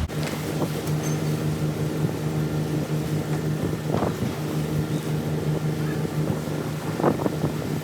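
Steady mechanical hum of a running motor or engine, holding one pitch, with a few faint knocks over it.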